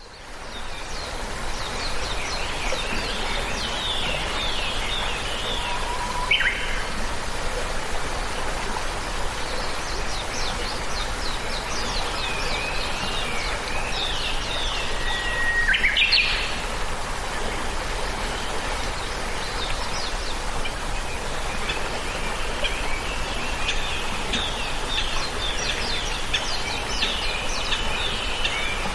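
Birds chirping and singing in repeated quick runs of high notes over a steady background hiss, with a sharp whistled note about six seconds in and another about sixteen seconds in. The sound fades in at the start.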